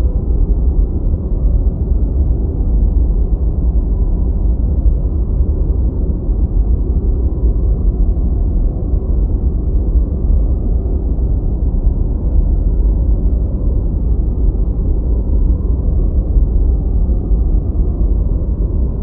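Deep white noise: a steady, even low rumble with no hiss at the top, unchanging throughout.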